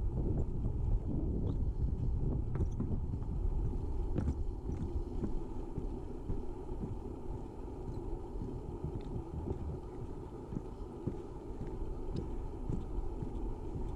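Wind rumbling on the microphone, with irregular footsteps of someone walking.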